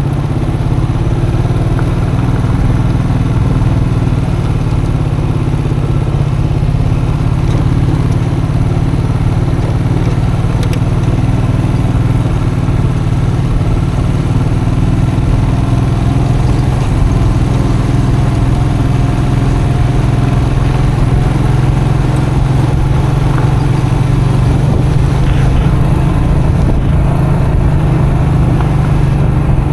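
Custom motorcycle engine running at a steady, nearly even pitch while riding on a dirt road, with a few faint knocks over the engine note.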